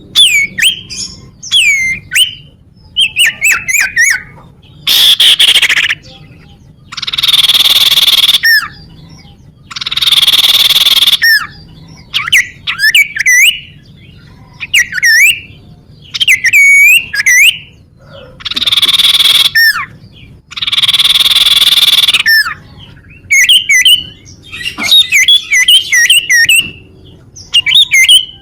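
Common iora (cipoh) calling: quick phrases of clear, sweeping whistled notes alternating with loud, harsh hissing rasps about a second long, repeated over and over.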